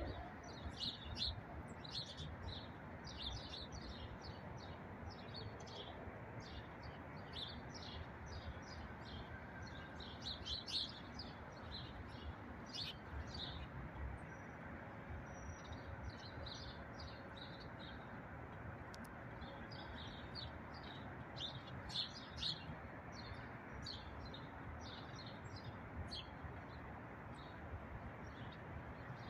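Many small birds chirping and twittering in quick short notes over a steady low background noise.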